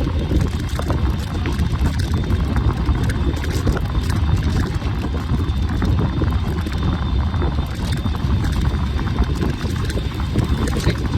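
Riding an e-bike: a steady low rumble of wind on the microphone and tyre noise, with small rattles and clicks throughout.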